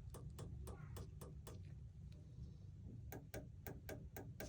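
Wall light switch rockers flicked back and forth, giving crisp clicks in two runs of about six each, some three to four a second.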